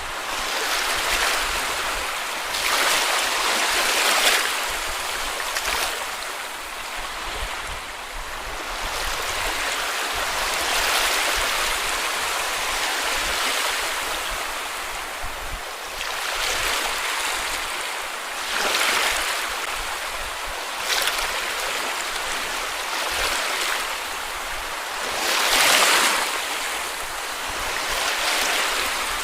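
Sea waves breaking and washing up on a beach, a steady hiss that swells with each wave every few seconds.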